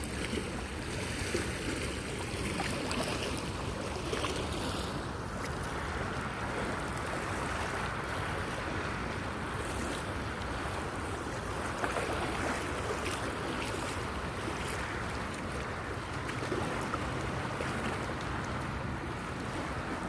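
Lake water lapping and washing at the shore, a steady wash with wind rumbling on the phone's microphone.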